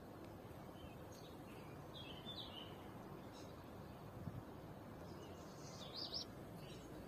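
Faint short bird chirps, scattered a handful of times with a stronger pair near the end, over steady low background noise. There is a soft low bump a little after four seconds.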